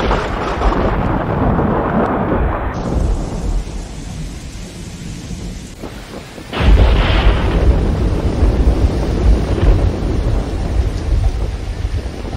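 Violent storm: heavy rain and gusting wind, fading somewhat after a few seconds, then a sudden loud low rumble of storm noise about halfway through that keeps going.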